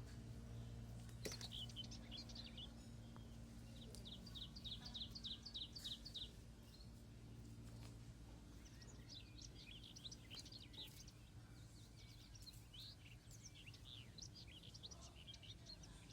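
Faint sparrow chirping: a few chirps, then a quick run of about eight, then scattered chirps throughout the rest.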